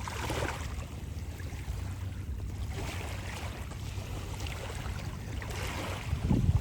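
Sea waves washing in every few seconds, with wind rumbling on the microphone.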